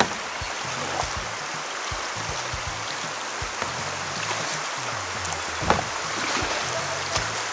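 Creek water rushing steadily around a kayak, with a few short knocks, the loudest almost six seconds in. Faint music plays underneath.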